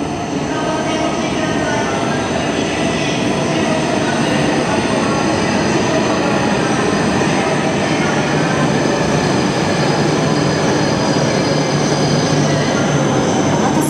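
Tohoku Shinkansen train pulling into the platform, a steady loud rush of wheel and running noise with thin high whining tones over it.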